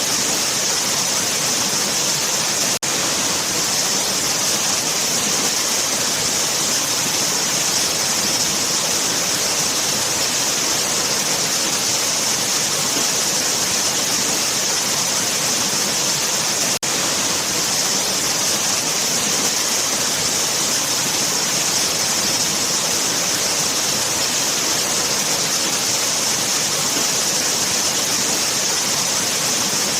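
Waterfall: a steady, even rush of falling water, bright and hissy, with no let-up. The sound dips for an instant twice, about three seconds in and about seventeen seconds in.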